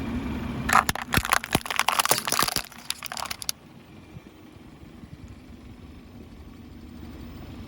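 Car tyre rolling over small lamp cups and crushing them: a rapid run of sharp cracks and crunches for about three seconds, starting just under a second in. After that only the car's low engine hum is left.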